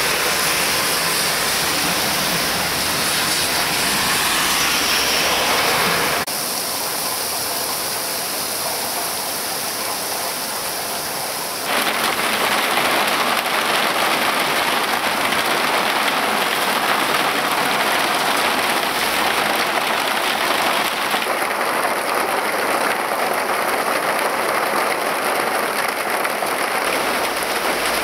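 Heavy thunderstorm downpour: a dense, steady hiss of rain. It drops suddenly in level about six seconds in and comes back up just as suddenly about six seconds later.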